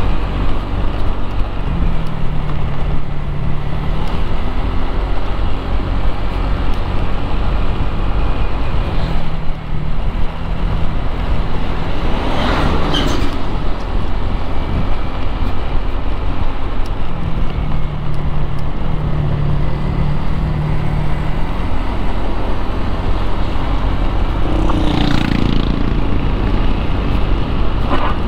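Road traffic noise with a steady low engine rumble close by. An engine hum rises and falls several times, and vehicles go past, loudest about twelve and twenty-five seconds in.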